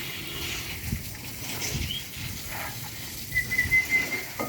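Pigeons moving about, with a few soft wing flutters and thumps, then a thin high bird call held for about a second near the end.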